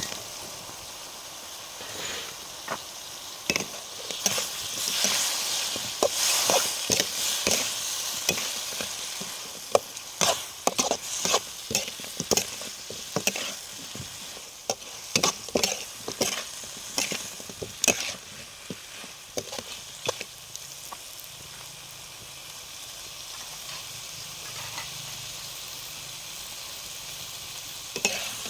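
Food sizzling as it fries in a pan, with a utensil clacking and scraping against the pan as it is stirred. The stirring stops about two-thirds of the way in, and the sizzle goes on steadily.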